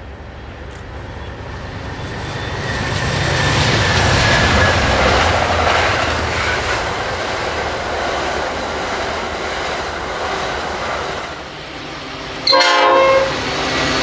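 Train running past, its rumble and wheel noise building over the first few seconds and then holding steady. Near the end comes one short, loud horn blast.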